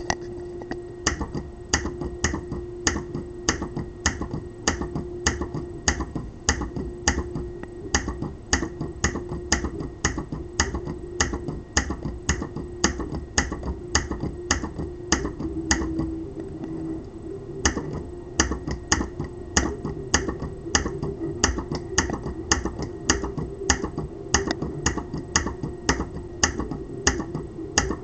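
Solenoid in a 3D-printed pulse propulsion device firing over and over, a sharp click about three times a second, with a steady hum underneath.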